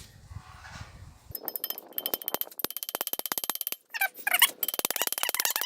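Rapid light hammer taps peening a brass rivet on a stainless steel spatula: a quick, even run of ringing metal strikes that starts about a second in and keeps going.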